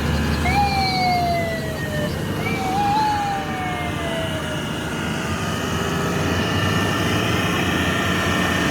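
A siren wailing over a steady low traffic or engine rumble; twice in the first few seconds its pitch jumps up and then slides slowly down, after which only the rumble continues.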